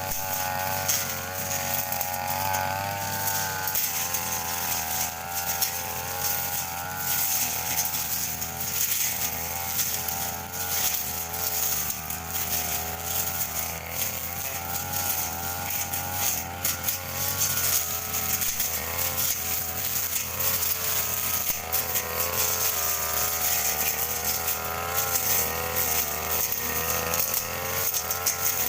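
Petrol brush cutter (grass-cutting machine) running steadily while slashing thin grass, its engine pitch wavering up and down as the load changes.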